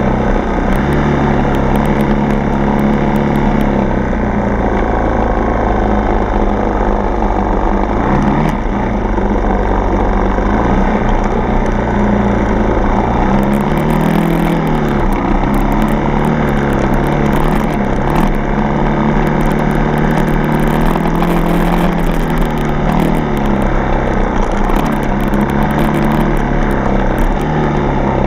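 Single-cylinder four-stroke dirt bike engine running while riding. Its pitch dips and rises as the throttle is eased and opened again, most clearly about 8 seconds in and again around 14 seconds in.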